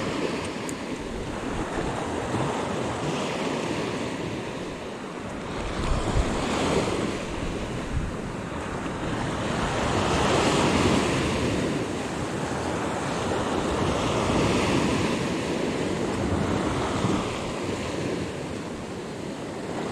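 Surf washing up on a sandy beach, swelling every few seconds, with wind buffeting the microphone.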